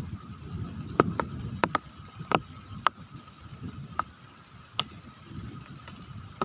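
Rain starting to fall: scattered large raindrops striking a surface close by, about nine sharp irregular taps over a low rumbling background and a faint steady high tone.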